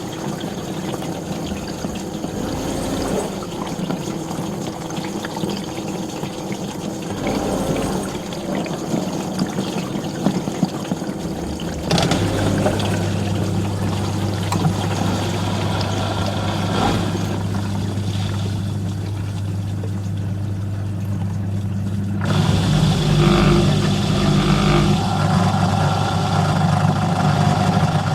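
Dishwasher running its cycle: water spraying and sloshing inside the tub, then a steady motor hum sets in about twelve seconds in and grows louder about ten seconds later.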